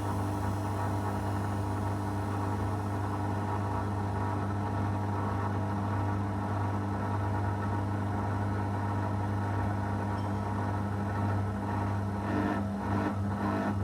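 Zanussi FL984CN front-loading washing machine running a wash program, its motor giving a steady low hum; near the end the sound turns uneven and pulsing.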